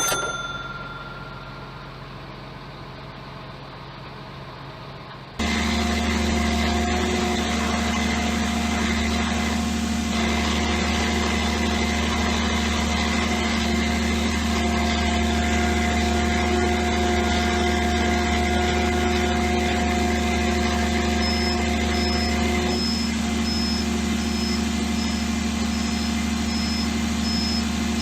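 Scania truck's diesel engine running steadily, with a steady whine on top, starting abruptly about five seconds in after a faint hum and a single click. Near the end, a regular high-pitched warning beep sounds about once a second.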